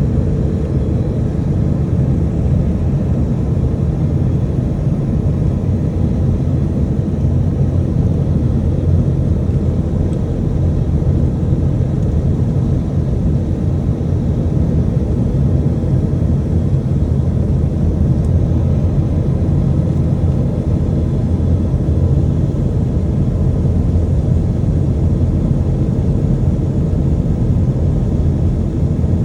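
Steady low rumble of an Airbus A320-212 with CFM56 engines, heard inside the passenger cabin. It holds even throughout, with no distinct knocks or changes.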